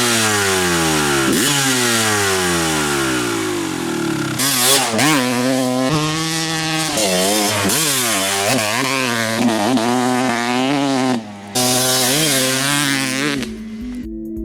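Dirt bike engine: its pitch falls several times, jumping back up between falls, then revs up and down in quick throttle blips. Music with steady tones comes in near the end.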